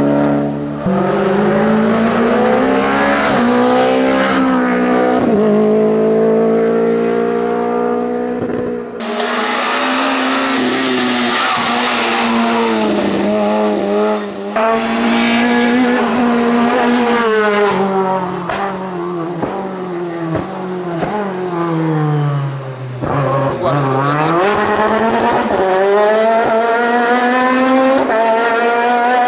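Hillclimb race car engines at full throttle, the pitch climbing through the gears and dropping sharply on each shift and lift. The sound changes abruptly twice, as from one car to the next.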